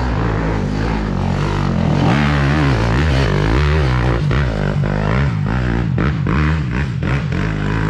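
Dirt bike engine revving hard, its pitch rising and falling repeatedly as the throttle is worked on a steep root-covered climb. Sharp knocks and clatter join in over the second half.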